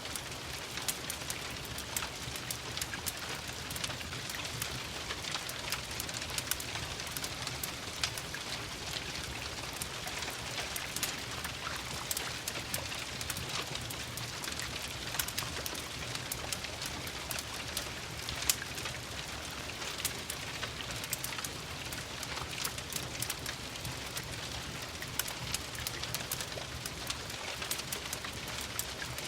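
Steady rain with the sharp crackles and pops of a wood fire scattered through it.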